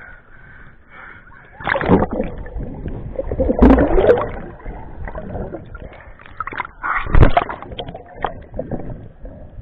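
Lake water splashing and sloshing in irregular bursts, loudest about two, four and seven seconds in.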